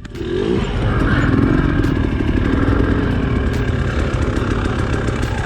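Dirt bike engine revving up at the start, then running steadily under throttle while riding a trail, with light clicks and rattles.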